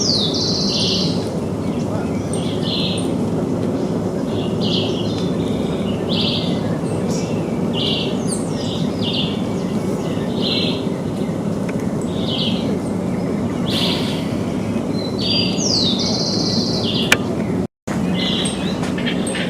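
Birds chirping in short, high calls about once a second, some in close pairs, over a steady low background hum. The sound cuts out completely for a moment near the end.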